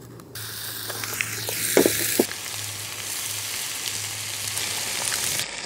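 Chicken frying in a pan on a portable gas camp stove, sizzling loudly. The sizzle starts suddenly about a third of a second in, is fiercest for the first two seconds, then settles into a steady sizzle, with a couple of short knocks about two seconds in.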